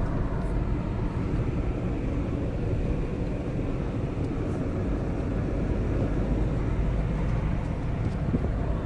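Mahindra Scorpio S5 BS6 diesel running, heard as a steady low rumble with no sudden changes.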